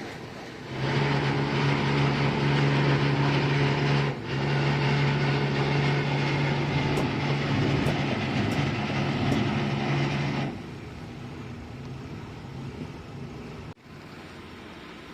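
Boat engine running steadily with a low hum. It breaks off briefly about four seconds in, then drops away about ten seconds in, leaving a quieter rumble.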